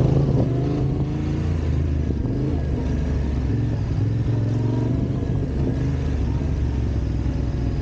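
Trail motorcycle engine running under way, its pitch rising and falling slightly with the throttle.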